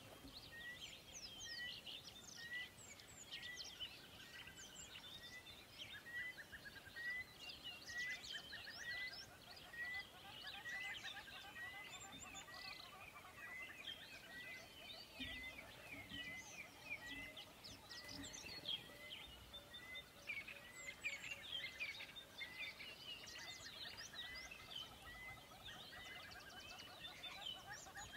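Many small birds chirping and twittering together, with one short call repeated steadily a little more than once a second.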